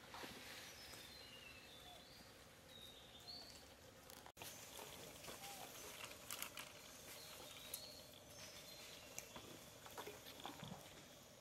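Faint outdoor ambience with small birds chirping in short high notes here and there, and scattered light clicks and rustles. The sound drops out for an instant a little over four seconds in.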